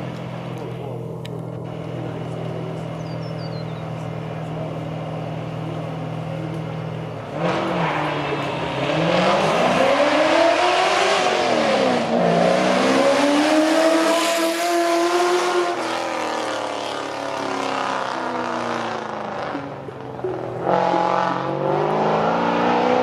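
Race car engine idling steadily, then revving hard and pulling away about seven seconds in, its pitch climbing and dropping back several times as it changes gear. The engine note eases off, then climbs again near the end.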